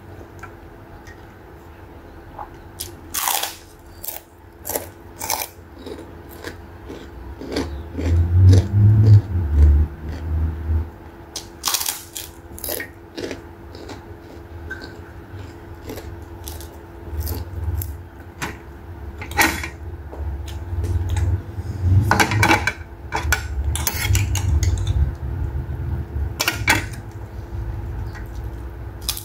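Close-up eating sounds: chewing with many sharp wet mouth clicks and smacks. Deep thudding chewing comes in heavily about a third of the way in and again through the last third.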